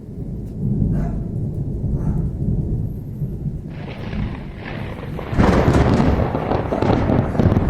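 Thunder rumbling low and steady, then a sudden louder crackling peal about five seconds in that keeps rumbling on.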